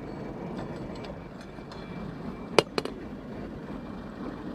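Two sharp gunshots in quick succession, about a quarter second apart, over steady background noise.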